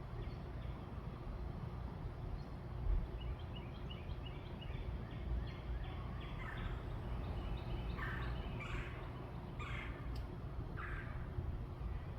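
Birds calling over a steady low rumble: a run of quick high notes, then several louder, rougher calls about a second apart in the second half.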